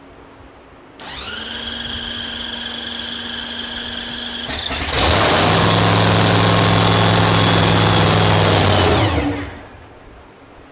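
Nitro Funny Car's supercharged V8 being cranked: a steady starter whine for about four seconds, then the engine catches and runs much louder and rougher for about four seconds before being shut off and winding down.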